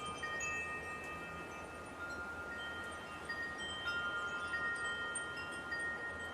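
Wind chimes ringing, a few metal chime notes struck now and then, each ringing on for several seconds and overlapping the next, over a steady soft hiss.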